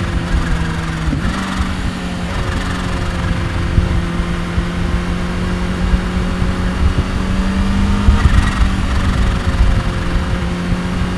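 Kawasaki Ninja H2's supercharged inline-four engine running steadily under way, its pitch stepping up slightly about a second in and climbing gently later on.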